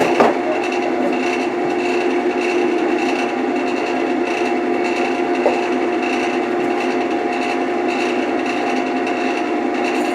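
Wood lathe running with a steady hum while a turning tool cuts a spinning wooden blank, a continuous scraping, rubbing noise, with a short knock right at the start.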